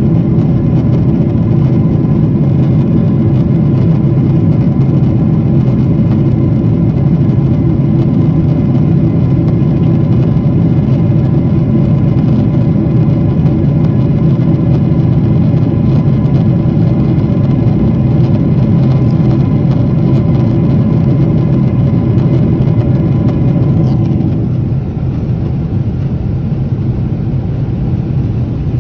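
Steady engine drone made of several held tones, dropping a little in level about 24 seconds in.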